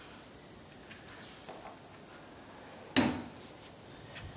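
A door clunking shut once, about three seconds in, over a low steady background hiss.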